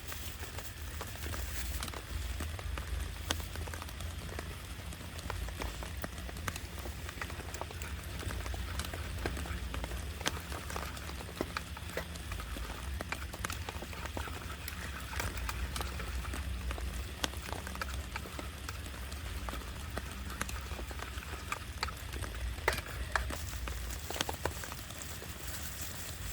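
Heavy rain falling on a camping tarp: a steady hiss dotted with many sharp individual drop taps, over a constant low rumble.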